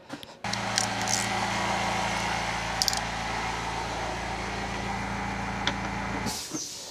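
Air blown into the engine bay to clear out dirt before parts come off: a steady rush of air with a low hum under it, starting about half a second in and cutting off near the end, about six seconds long.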